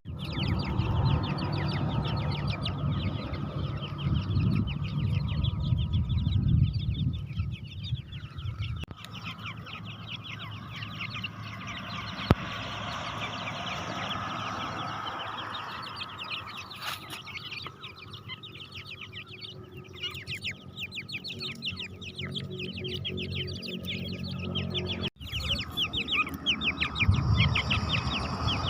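Dakhni tetar partridges calling, a dense run of quick high chirping notes that goes on throughout, with a low rumbling noise underneath for the first several seconds and again near the end.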